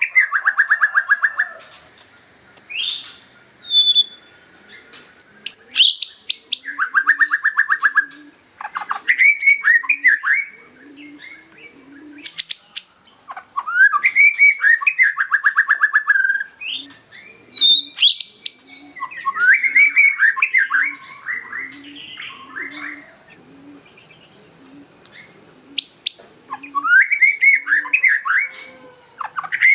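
A young white-rumped shama (murai batu), just past its spotted juvenile stage, singing its basic song. The song comes in repeated phrases of rising whistles that run into fast trills, with short pauses between phrases.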